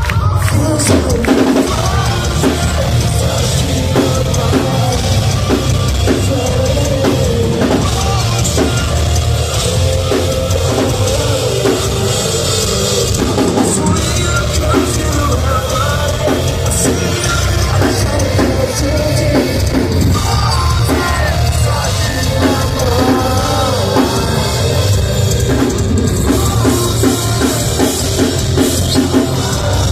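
Live rock band playing at full volume, with a pounding drum kit and bass drum driving the song under dense, heavy guitars.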